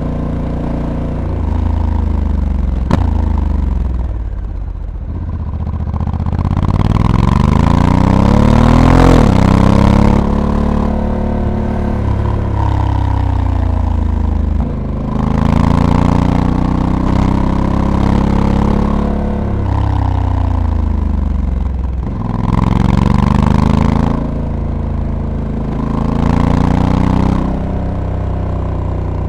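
Honda Africa Twin's 1084 cc parallel-twin engine under way, its pitch rising repeatedly as it accelerates and falling back as it slows, about four times. During the louder rises a rushing wind noise comes in, and there is one sharp click about three seconds in.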